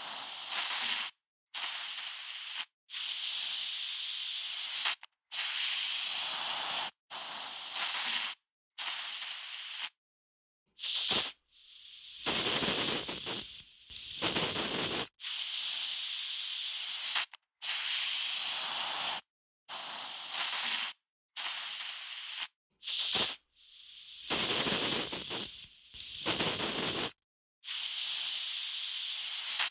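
Aerosol spray can hissing in repeated sprays, most about one to two seconds long, with short silent gaps between them. Two longer sprays, about a third of the way in and again near the end, swell in loudness and carry a fuller, lower hiss.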